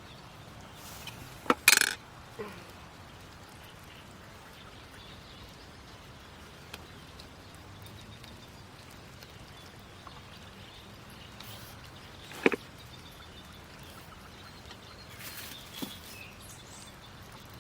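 Quiet outdoor background with a few short, sharp knocks or clinks: a loud pair about two seconds in, a single sharp one around twelve seconds in, and softer ones near the end.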